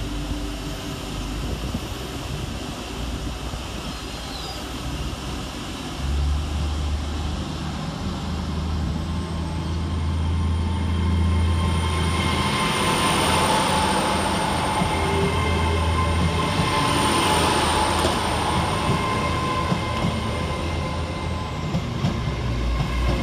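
LNER Class 800 Azuma bi-mode train pulling away from the platform on its underfloor diesel engines. A low engine drone comes in about six seconds in, and the train grows louder as it gathers speed and the carriages roll past, with a high steady whine over it for most of the time.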